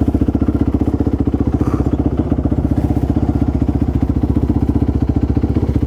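450cc single-cylinder four-stroke off-road engine idling steadily, a fast, even pulsing beat with no revving.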